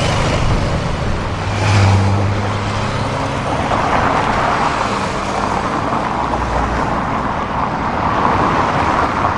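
Road traffic: motor vehicle engines and tyre noise, with a louder low engine note swelling briefly about two seconds in.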